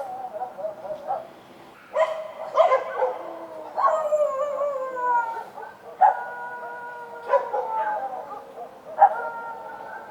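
Street dogs barking and howling: a run of sharp barks, several drawn out into long calls that slide down in pitch, with more than one dog calling.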